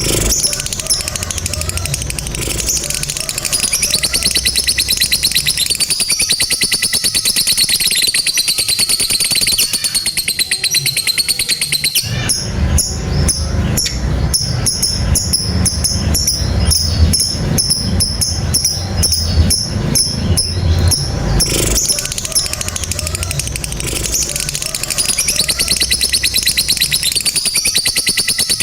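Lovebird giving the long, unbroken "ngekek panjang" chatter: a very fast, high-pitched rattling trill that runs on without pause, with a low rumble underneath from about twelve seconds in to about twenty-two.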